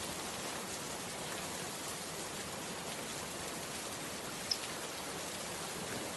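Steady rain falling and pattering on surfaces, an even hiss of water, with one short high tick about four and a half seconds in.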